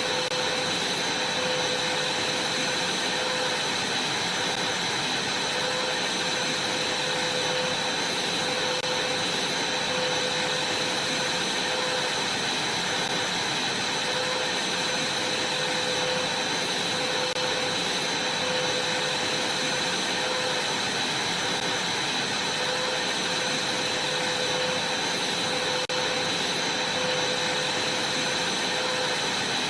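Vacuum cleaner running steadily: an even rush of air with a steady high whine over it.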